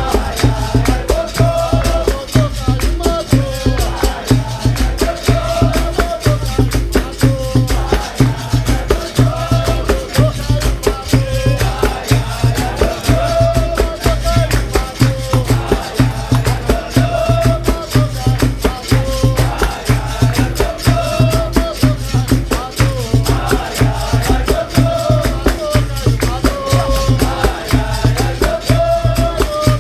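Live capoeira roda music: a steady, even hand-drum beat under rattling percussion, with melodic lines from voices or the berimbau.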